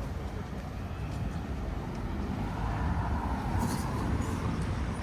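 A road vehicle passing by, its low rumble swelling louder around the middle, over general street hubbub.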